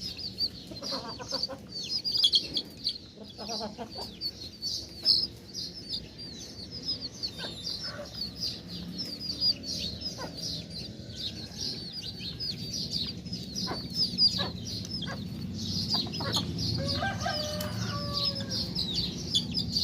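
A flock of chicks peeping continuously in short, high-pitched cheeps, with clucking chickens calling now and then and a longer chicken call near the end.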